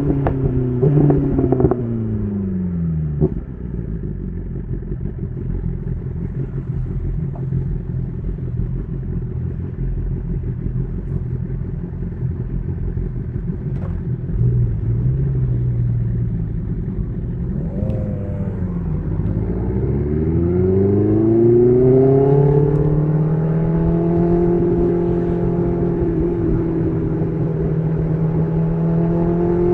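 BMW S1000RR inline-four through an SC Project CR-T titanium exhaust: the engine note falls as the bike slows, runs low and steady for about fourteen seconds, then rises as the bike pulls away and settles into a steady cruise, climbing a little near the end.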